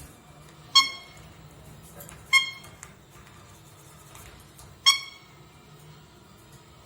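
Pet parrot giving three short, sharp squawks spread over about four seconds.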